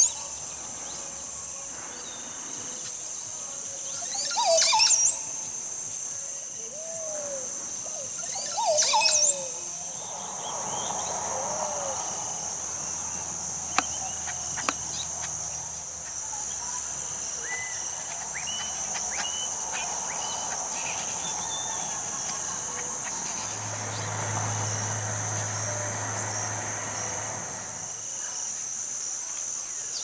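Oropendola singing: three loud songs that sweep up and down in pitch in the first ten seconds, then softer bird chirps, over a steady high drone of insects.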